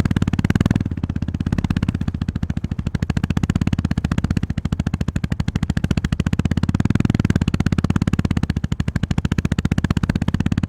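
Honda GB350S 348 cc single-cylinder engine running at low revs, its firing pulses making a fast, even beat. The throttle opens up just after the start and again about two-thirds in, each time briefly louder.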